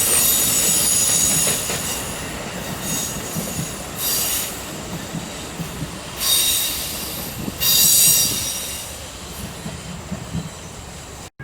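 Amtrak passenger train's wheels squealing against the rails as it rolls by. Several drawn-out, high squeals swell and fade, loudest at the start and again about eight seconds in, then die away. The sound cuts off abruptly just before the end.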